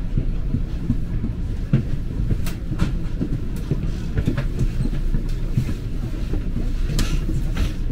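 NJ Transit commuter train heard from inside the passenger car: a low, steady running noise as the train moves slowly along the platform, with scattered sharp clicks and knocks, two of them around the third second and a louder one near the end.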